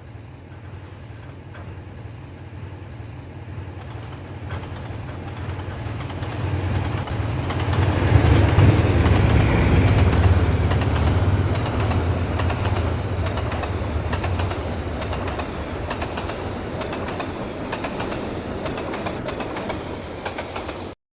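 Freight train's diesel locomotive working under load as it climbs a grade, its low engine drone building to a peak about halfway through and then slowly easing, with wheel clatter on the rails as the container wagons pass.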